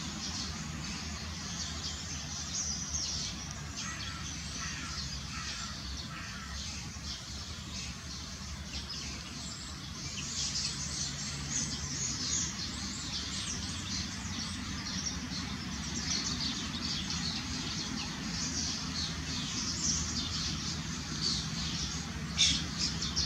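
Many small birds chirping, with short high chirps overlapping and growing busier about halfway through, over a steady low background rumble.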